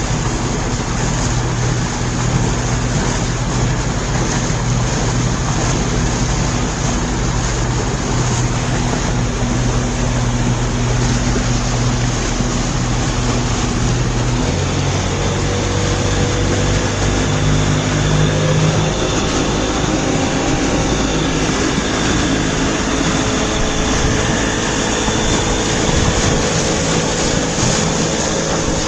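A boat's engine running steadily under way, with the rush of water and wind over it. About halfway through, the engine note drops to a lower pitch.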